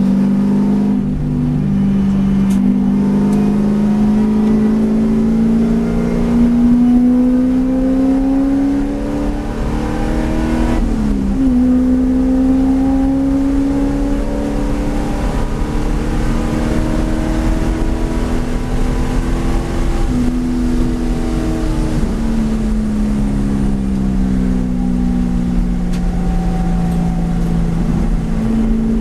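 V8 race car engine under hard driving: its pitch climbs steadily under acceleration, drops sharply at a gear change about eleven seconds in, falls away for several seconds past the twenty-second mark as the car slows, then rises again near the end.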